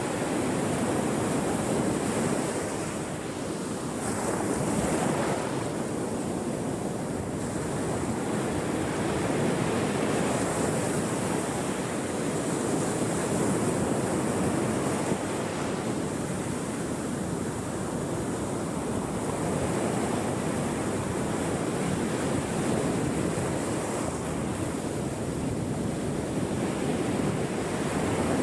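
Ocean waves breaking and washing on a shore, a continuous rush that swells and eases every few seconds, with wind on the microphone.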